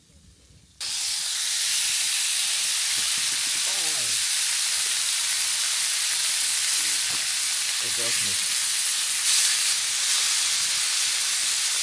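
Thinly sliced steak frying in a hot pan, a steady loud sizzle that starts abruptly about a second in.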